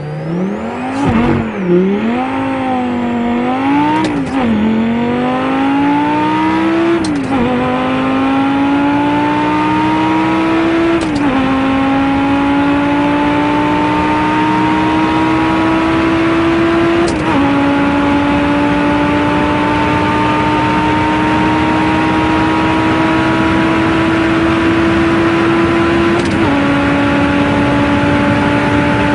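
Car engine accelerating hard through the gears. The pitch climbs in each gear and drops sharply at five quick upshifts, each with a short click. The gears last longer and longer, so the later pulls climb slowly.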